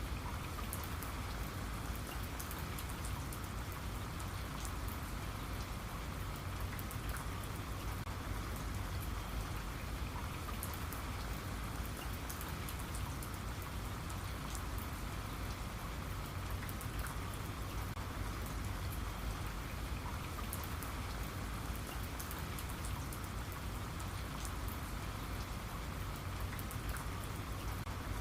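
Steady rain, with many small drops ticking on a surface.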